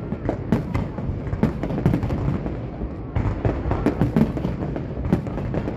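Fireworks going off in a rapid, irregular series of bangs and pops over a continuous low rumble.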